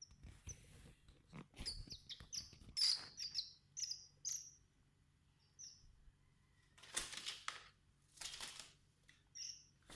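Oriental magpie-robin giving a quick run of short, high chirps. Two brief rustling noises follow in the second half, then a few more chirps near the end.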